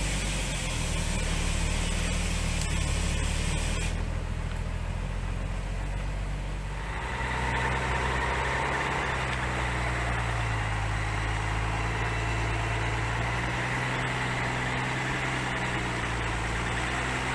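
A vehicle engine running steadily, its steady hum changing in pitch and character about seven seconds in.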